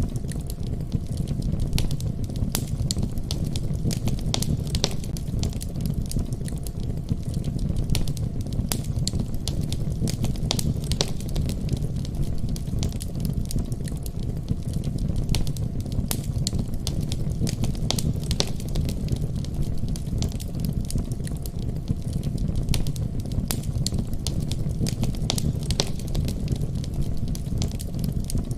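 Wood fire in a fireplace crackling and popping, with many sharp irregular pops over a steady low rumble of the flames.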